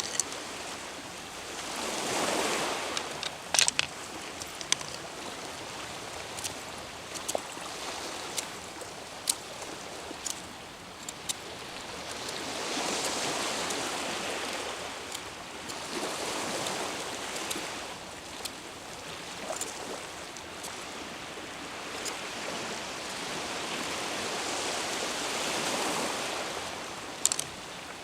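Sea waves washing on the shore, swelling and fading every several seconds, with scattered sharp clicks and taps.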